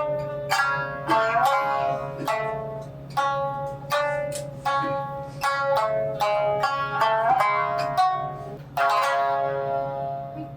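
Tsugaru shamisen playing: sharply struck plucked notes in quick runs, with sliding pitch bends and short pauses between phrases.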